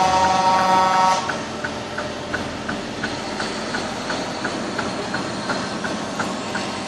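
Brass music that stops about a second in, then the steady noise of a running truck with a sharp, regular ticking about three times a second.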